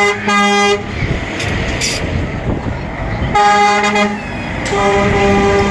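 Truck air horns sounding in long blasts, several pitches together: one ends just under a second in, another sounds about three and a half seconds in, and a long one starts about five seconds in. Heavy vehicle engine and road noise fills the gaps.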